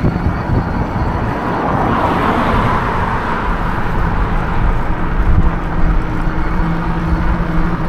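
Wind rumbling on the microphone of a moving e-bike, with a car passing by, its noise swelling and fading about two seconds in. A steady low hum comes in about halfway through.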